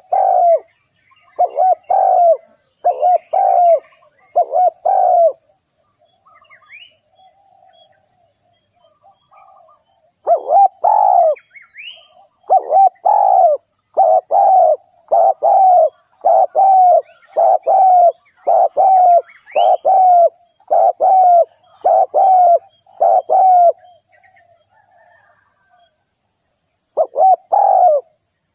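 Spotted dove cooing in repeated low phrases: a short run, a pause of several seconds, then a long run of steady coos, and a last pair near the end. Faint chirps of small birds and a steady high hiss lie underneath.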